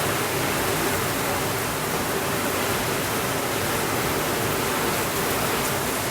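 Steady rainfall, an even hiss with no breaks or single drops standing out.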